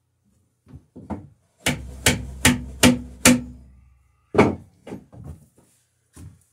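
Hand tool hammering on wood: a few light taps, then five hard blows in a quick even rhythm, about two and a half a second, then one more hard blow and some lighter taps.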